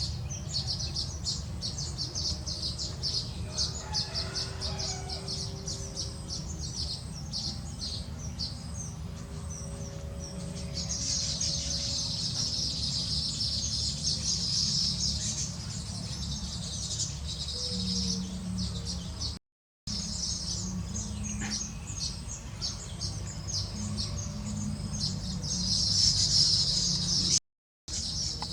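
Many small birds chirping together in a rapid, continuous high-pitched chatter, swelling into louder bursts twice, over a steady low background rumble. The sound cuts out briefly twice.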